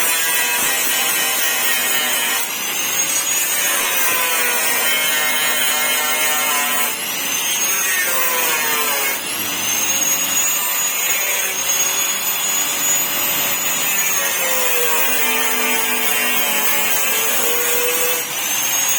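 High-speed handheld power tool working on the car's metal bodywork: a steady high whine that dips and rises again about four times as the tool slows and picks back up.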